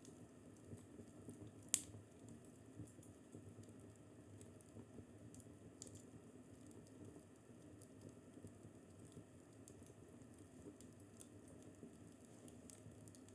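Fireplace fire crackling softly, with scattered small pops over a low hiss and one sharp, louder pop about two seconds in.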